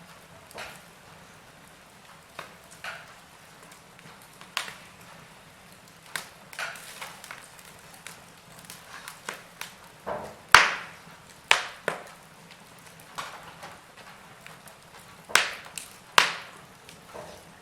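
Logs burning in a fireplace, crackling: irregular sharp pops and snaps over a faint steady hiss, the loudest pops a little past the middle and near the end.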